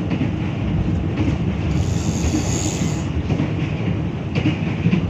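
Running noise of a passenger train heard inside the coach: a steady, loud rumble of wheels on rails, with a brighter hiss that comes in for about a second around two seconds in.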